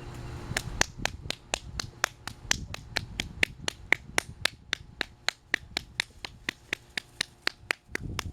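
A rapid, even series of sharp clicks, about four a second, that goes on for about seven and a half seconds and then stops.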